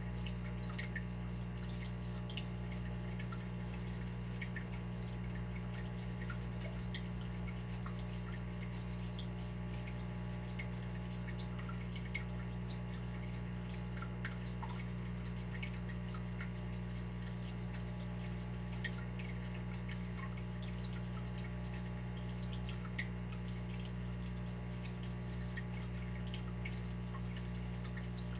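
Water running and dripping: a steady low hum with many small drips and plinks scattered throughout.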